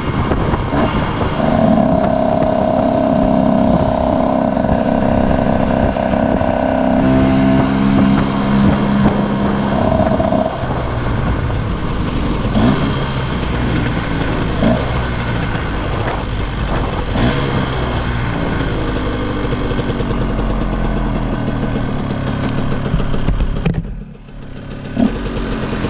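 Cagiva Mito EV 125's two-stroke single-cylinder engine running as the bike rolls slowly in traffic, holding steady revs for the first several seconds, then lower and uneven. Near the end the sound drops briefly as the bike comes to a stop, and the engine settles toward idle.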